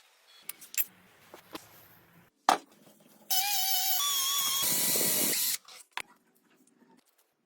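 A few light clicks and a sharp knock, then a loud hiss of pressurized spray lasting about two seconds with wavering whistle tones in it, cutting off suddenly.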